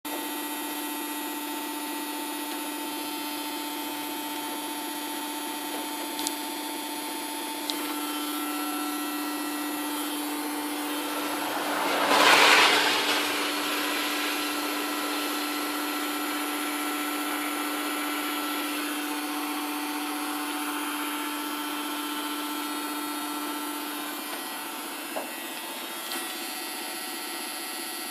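Land Rover Discovery V8 engine running with a steady droning tone, plus a louder rushing swell lasting about two seconds around twelve seconds in. It is an odd engine noise whose cause the owner does not know.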